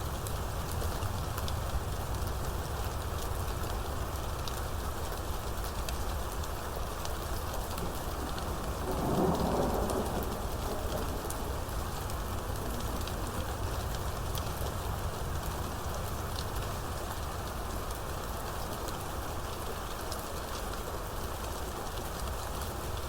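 Steady rainstorm, rain falling continuously, with a short burst of thunder about nine seconds in.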